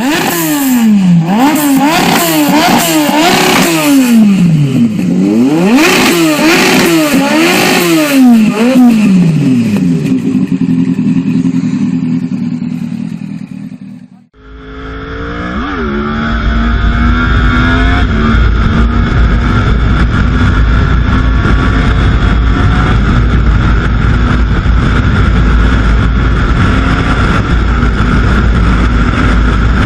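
A sport motorcycle's engine revved hard again and again, its pitch climbing and dropping about once a second, with crackling pops from the exhaust. About fourteen seconds in, the sound cuts to a steady engine drone with a heavy low rumble.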